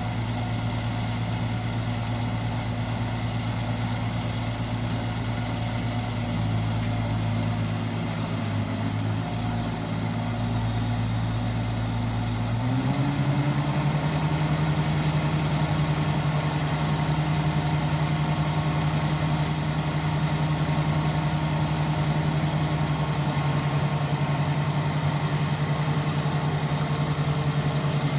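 ISEKI rice harvester's engine running steadily; a little under halfway through its pitch steps up and holds there as the engine speeds up.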